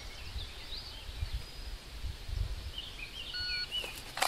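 Wild birds chirping intermittently over low wind rumble on the microphone, with a sharp snap just before the end.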